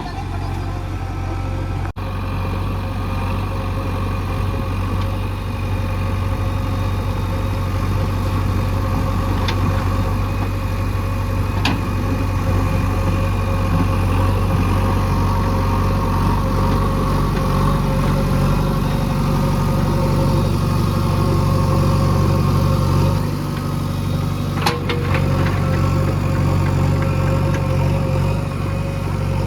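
Heavy diesel engine running steadily at a low, even speed, its note shifting about 23 seconds in, with a sharp click a second or so later.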